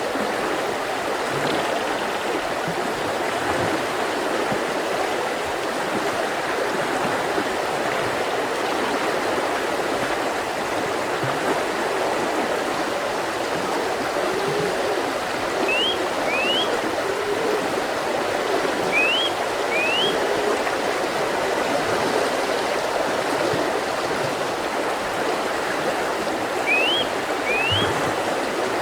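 Mountain river rushing steadily over rocks. A small bird gives three pairs of short rising whistles across the latter half.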